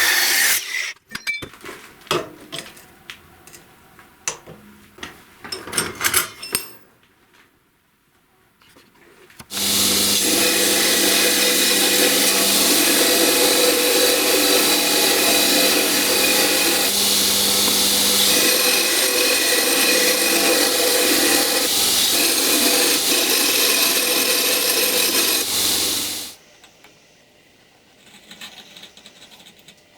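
Sharp knocks and clatter from handling, then a power tool runs steadily for about sixteen seconds with a constant hum under a loud hiss, and stops abruptly.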